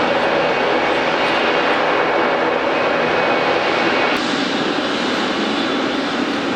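Jet airliner engines running: a steady rushing noise with a faint high whine. About four seconds in, the sound changes abruptly, a little quieter and without the whine.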